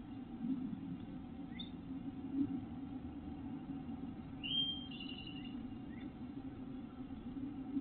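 Songbird calling outside the nest box. About halfway through comes a short whistled phrase that sweeps up and then holds, with a couple of brief rising chirps before and after. A steady low hum runs underneath.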